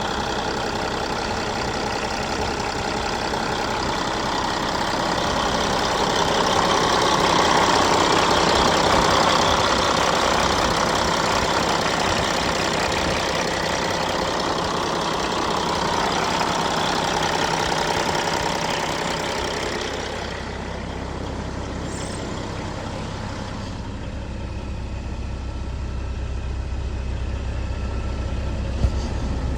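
Caterpillar 3406E inline-six diesel of a Kenworth W900 tractor running at idle. About twenty seconds in the sound turns quieter and deeper, leaving mostly a low hum, and a single click comes near the end.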